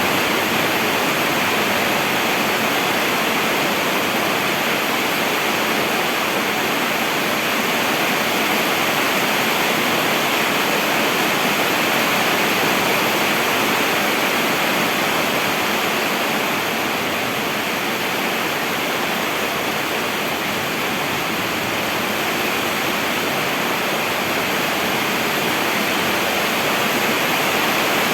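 Steady rain falling, a dense, even hiss with no distinct drops or thunder.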